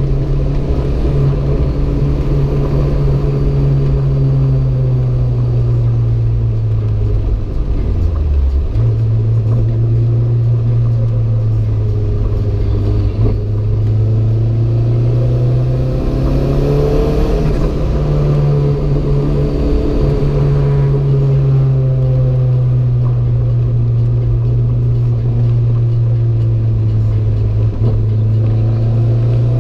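Renault 5 GT Turbo's turbocharged four-cylinder engine running hard at speed, its note slowly rising and falling. There is a brief dip in the note about eight seconds in.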